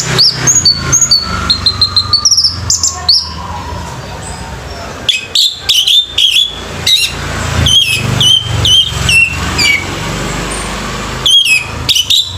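Orange-headed thrush singing: runs of quick, sharp high notes, then a string of repeated down-slurred whistles about two a second, over a steady low hum.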